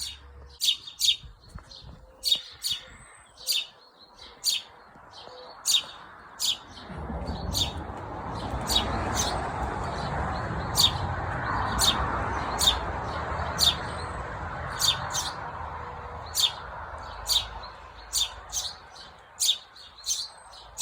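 House sparrow chirping, repeated single short chirps about one or two a second. A broad rushing noise swells up in the middle and fades again.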